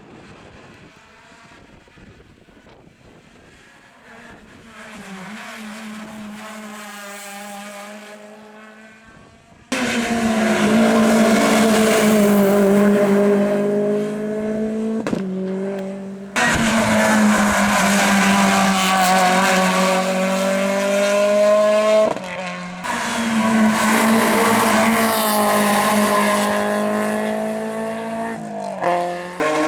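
Rally cars' engines at high revs on a stage road. First one car is heard approaching from afar and growing louder. Then come loud, close passes at full throttle, with pitch shifting up and down through the gears, in several stretches that start and stop abruptly.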